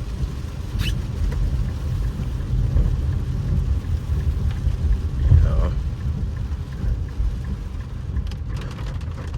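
Infiniti Q50s cabin while driving in heavy rain: a steady low road and engine rumble under rain on the car. A cluster of small clicks comes near the end.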